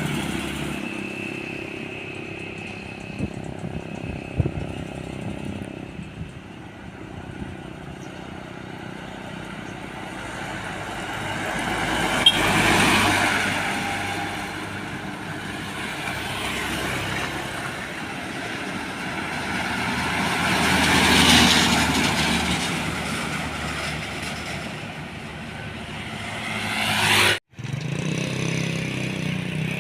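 Road traffic passing by, with two vehicles swelling up and fading away one after the other. A few light clicks sound early on, and the sound cuts out for a moment near the end.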